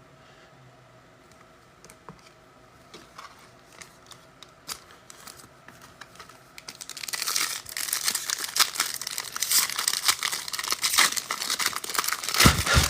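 Foil trading-card pack wrappers being torn open and crinkled by hand: a few faint clicks at first, then from about seven seconds in a dense, continuous crinkling and tearing.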